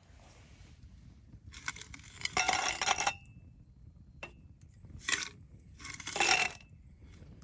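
Metal clattering and clinking in three bursts, the first and last longest, with a short metallic ring in them; a single sharp tick falls between them.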